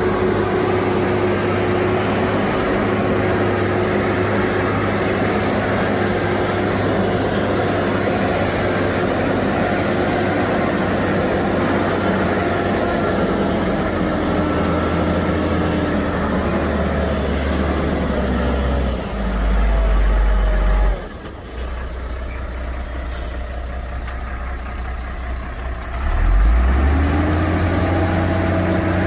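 Heavy diesel engine of an earthmoving machine working under load. Past the middle its note sinks and a deep rumble swells, then it falls suddenly quieter for several seconds. Near the end it revs back up with a rising pitch.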